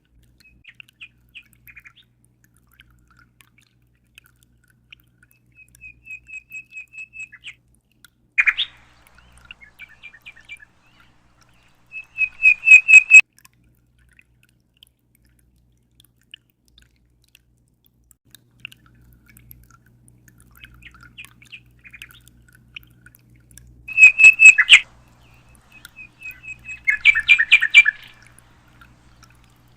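A small bird chirping in short runs of rapid, high-pitched notes, with loud bursts about twelve seconds in, again about twenty-four seconds in, and shortly after.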